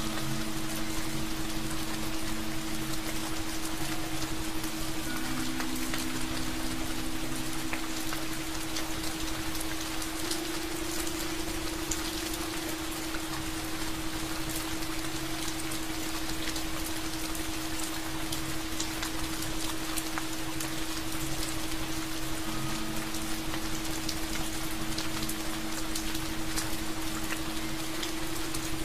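Steady rain falling, with individual drops ticking through it, over low held tones that change every several seconds.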